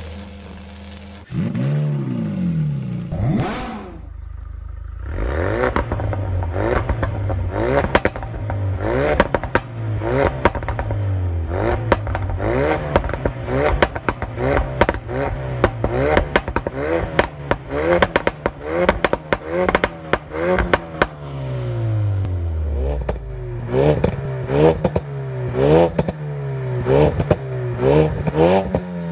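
2017 Ford Focus RS mk3's 2.3-litre turbocharged four-cylinder engine through an RCP turbo-back valved exhaust. It comes in loudly about a second in, then is revved over and over in quick blips, each rise and fall followed by sharp pops and crackles on the overrun, with one longer rev dropping slowly back near the end.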